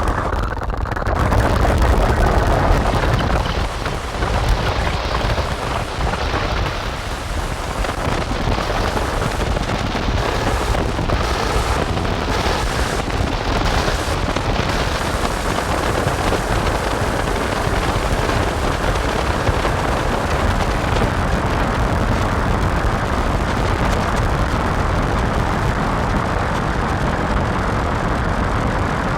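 Dense, distorted noise drone from a Make Noise modular synthesizer (Strega, Maths, Morphagene) run through Death By Audio fuzz and filter pedals. A thick, steady wash heavy in the lows, with the highs flickering in and out during the first half, then holding steady.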